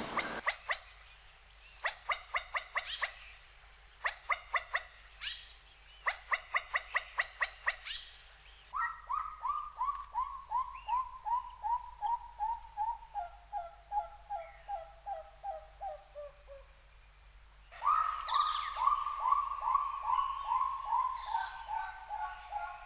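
Animal calls: short bursts of rapid clicking, then two long runs of repeated call notes that fall steadily in pitch, each run lasting several seconds.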